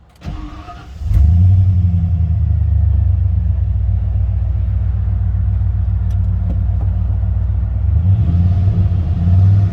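Car engine cranked and starting right up: it catches about a second in and settles into a steady idle, with no knocks or clicks, and runs a little louder near the end.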